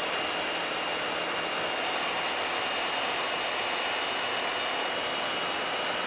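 Mooney M20K's turbocharged flat-six engine and propeller running steadily, heard as an even cockpit drone with a constant thin high whine over it.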